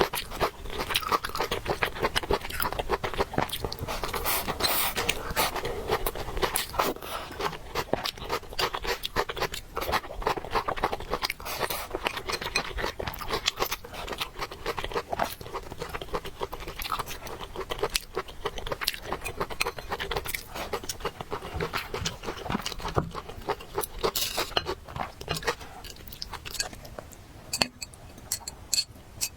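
Close-miked eating: continuous chewing and crunching of food in the mouth, with many quick wet clicks, getting quieter in the last couple of seconds.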